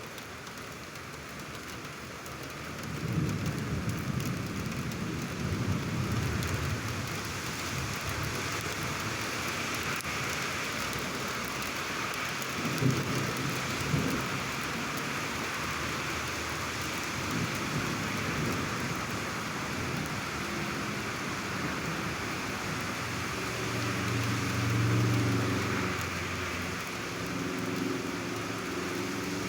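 Heavy thunderstorm rain falling steadily, with thunder rumbling low a few seconds in and again near the end, and two sharp cracks about a second apart midway.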